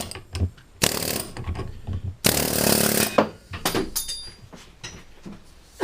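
An air hammer working on a car's rear wheel hub in three short bursts, the longest about a second, with light metallic clicks between them.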